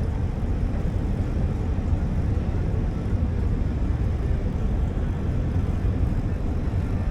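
Wind buffeting the camera microphone: a steady, loud, deep rumbling noise with no clear engine tone.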